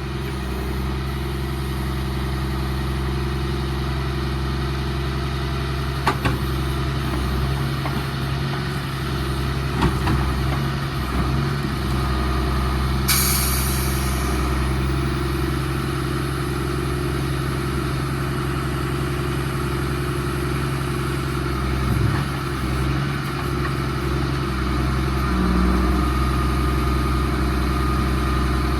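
Inline-six 10-litre diesel engine of a 1993 Freightliner FLD120 log truck idling steadily. A few sharp knocks and, about halfway through, a short hiss.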